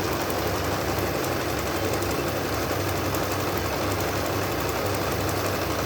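Janome electric sewing machine running steadily at full speed, its needle mechanism giving a fast, even clatter.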